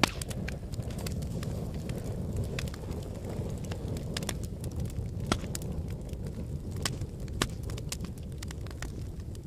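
Fire crackling in a fireplace: a steady low rumble of flames with scattered sharp pops and crackles throughout, the loudest pops coming near the start, about halfway and about three-quarters of the way through.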